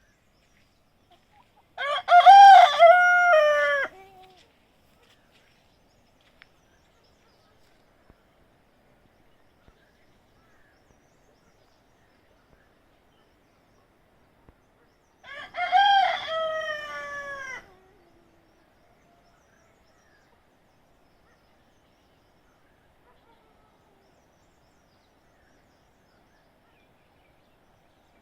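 A rooster crowing twice, each crow a pitched call of about two seconds, the second coming some thirteen seconds after the first.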